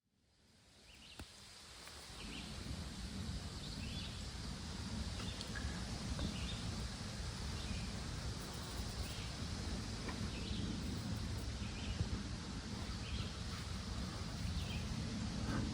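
Outdoor ambience fading in over the first two seconds: steady low rumbling background with a bird giving a short, high chirp about once a second.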